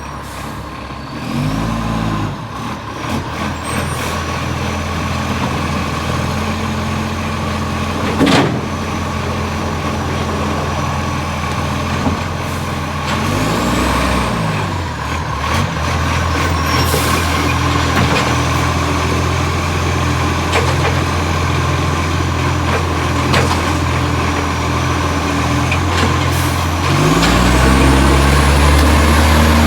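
Diesel engine of a garbage truck with an exhaust leak, running steadily and revving up and back down three times. A thin high whine climbs with each rev, and one sharp knock comes about eight seconds in.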